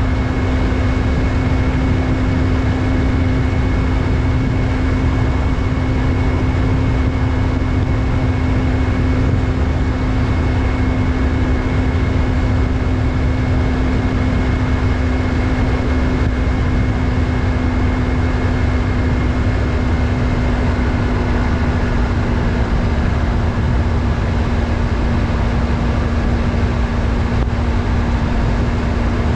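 Yamaha MT-03's 321 cc parallel-twin engine running steadily while cruising at an even speed, its pitch holding nearly constant. Heavy wind and road rush sit under the engine note.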